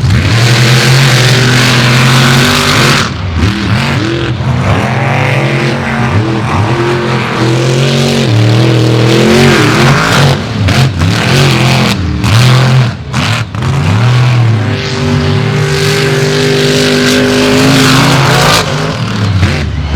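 Monster truck engines revving hard, the pitch climbing and falling as the throttle is worked, with a few short drops where the throttle comes off.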